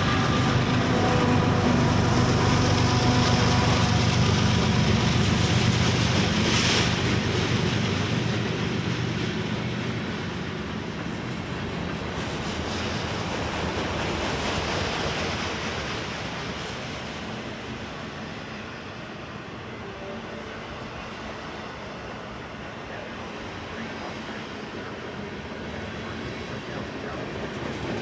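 Union Pacific freight train passing: diesel locomotive engines loud for the first several seconds, giving way to the rolling rumble and clatter of freight cars. There is a brief hiss about six seconds in.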